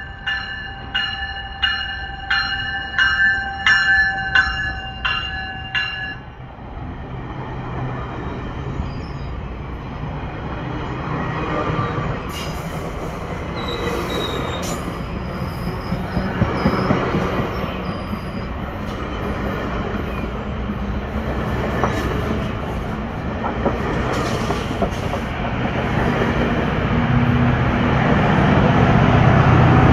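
GO Transit bilevel commuter train arriving: a bell rings about twice a second for the first six seconds, then the double-decker coaches roll past with wheel rumble, clicks and faint brief squeals. A diesel locomotive pushing at the rear grows louder near the end.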